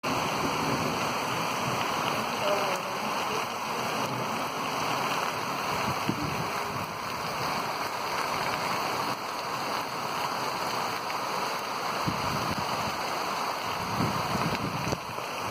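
Heavy rain falling steadily on open ground and puddles, an even hiss with no break.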